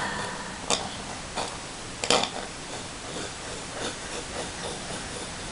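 Steady hiss of a close, sensitive microphone, with a few faint clicks, three of them in the first couple of seconds.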